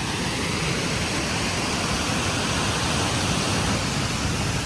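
Steady rushing of a river running high after heavy rain.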